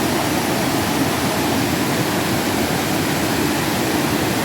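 Rushing river water: a steady, even wash of flowing water.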